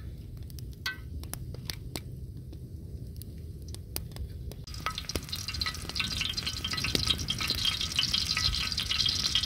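Food frying on a disco, a plough-disc cooking pan, over a fire. A few sharp clicks come in the first half. Then the sizzling sets in suddenly about halfway through and carries on steadily, the sign of the chopped food hitting the hot metal.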